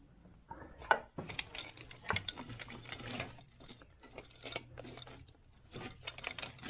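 Hand ratchet wrench clicking in quick runs, a long run of fast clicks over the first few seconds, then shorter bursts later.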